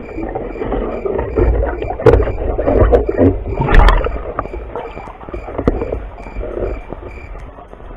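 Muffled water sounds picked up by a spearfisher's waterproof camera: irregular sloshing and gurgling with a deep rumble and a few sharp knocks, loudest about two seconds in and again near four seconds.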